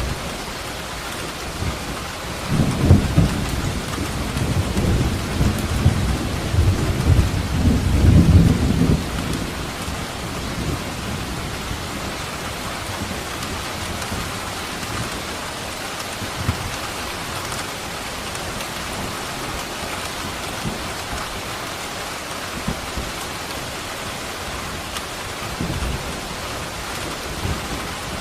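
Steady heavy rain hissing, with a roll of thunder rumbling from about two and a half seconds in to about nine seconds, and another rumble beginning at the very end.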